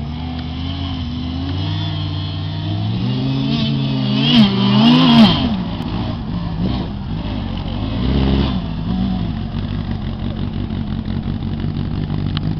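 Engine of a caged off-road 4x4 trial vehicle revving up and down in repeated bursts as it works across rough ground. It is loudest about four to five seconds in.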